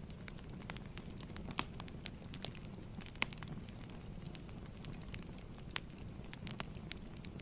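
Wood fire crackling in a fireplace: a steady low rumble with irregular sharp pops and snaps, a few of them louder than the rest.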